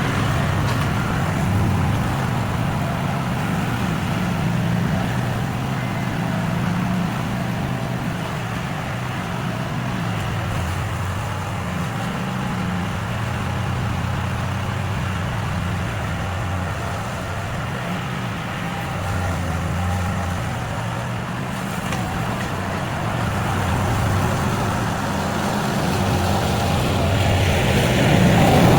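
Small gasoline engine of yard equipment running steadily, growing louder near the end.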